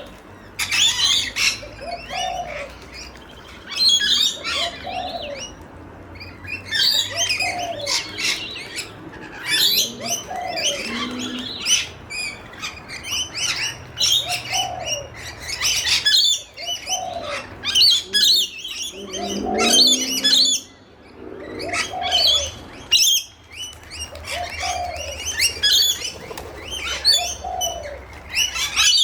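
A flock of rainbow lorikeets screeching and chattering shrilly, while a pigeon coos over and over, about once every two seconds.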